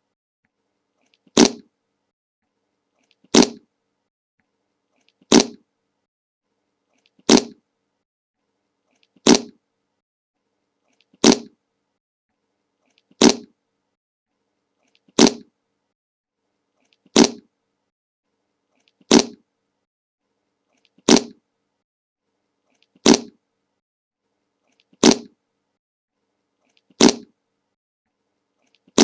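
A fart sound effect, the 'Le Monke' meme fart, repeated in a loop: the same short blast plays about every two seconds, with silence between.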